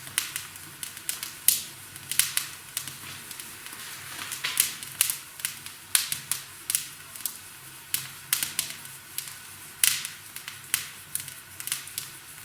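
Firewood crackling in a homemade fireplace's firebox: irregular sharp pops, one to a few a second, over a faint low steady background.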